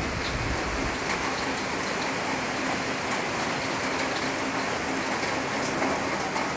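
Heavy rain falling steadily, a constant hiss with scattered individual drop hits.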